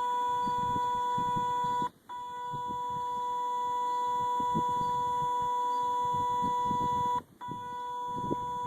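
High-pitched electrical chirp from the electric control actuator of a 2005 Kawasaki Brute Force 750 ATV, sounding with the key off. It is a steady tone that breaks off briefly about two seconds in and again near the end. The owner believes it comes from the brake actuator / belt area, and it drains the battery unless the 30 amp fuse is pulled.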